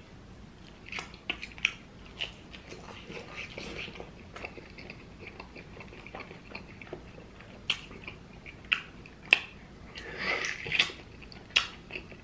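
Close-miked mouth sounds of someone eating hot wings and pizza: chewing with sharp, wet lip smacks scattered irregularly throughout, and two longer stretches of squelchy chewing.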